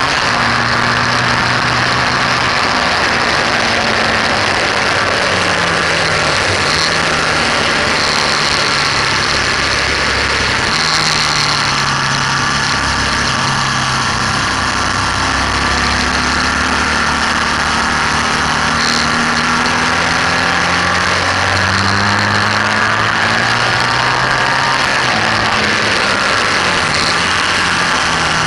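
BMW R1200S boxer-twin engine running hard on track, its note rising and falling through gear changes, braking and acceleration, under loud wind rush on the bike-mounted microphone.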